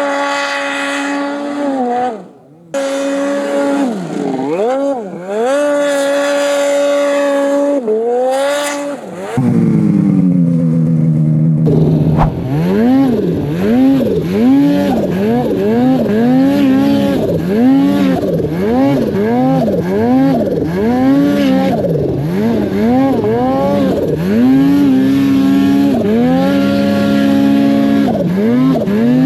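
Two-stroke snowmobile engine revving up and down over and over as the throttle is worked. Partway through the sound changes abruptly to another stretch of the same rise-and-fall revving.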